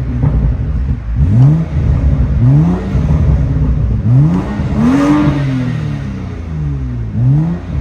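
2015 BMW 335i's turbocharged 3.0-litre inline-six revved in about six quick blips through a catless downpipe and muffler-deleted exhaust with the exhaust valve flap welded open. One blip about five seconds in is held longer and falls off slowly. It sounds a little louder with the flap open.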